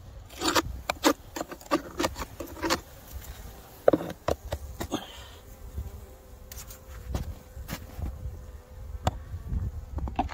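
Honeybees buzzing at a hive, with a thin steady hum through the middle, over a run of sharp clicks, knocks and scrapes in the first few seconds.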